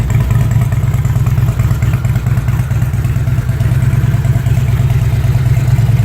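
2005 Harley-Davidson Ultra Classic Electra Glide's fuel-injected Twin Cam 88 V-twin idling steadily with a low, pulsing beat.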